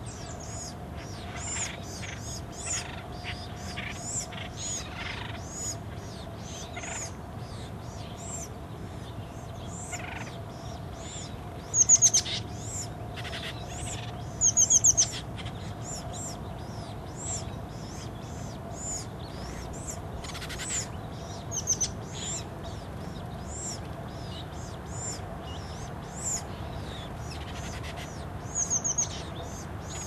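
High-pitched bird calls: short notes repeated every second or so, with louder quick series of calls about twelve seconds in, around fifteen seconds, and again near the end.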